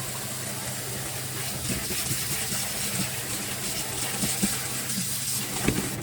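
Kitchen tap running steadily into the sink, with a few faint knocks near the end.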